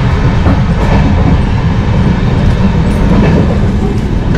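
Moving Indian Railways passenger coach heard from inside near the doors: a loud, steady rumble of the running gear on the track, with a few faint clicks.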